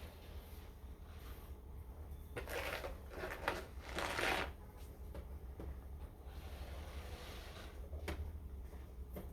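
Snow shovel scraping and scooping snow off a path, in a few short strokes with the biggest about three to four seconds in, over a steady low rumble.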